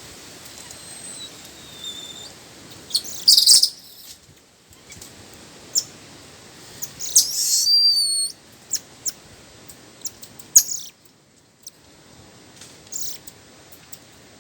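Birds calling: high whistled notes and short sharp chirps, loudest in two bursts about three and seven seconds in, over a faint steady hiss.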